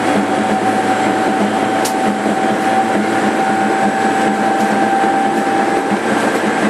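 JR 205 series 5000-subseries electric train running, heard from inside its motor car, with a steady whine that fades out near the end and a brief click about two seconds in.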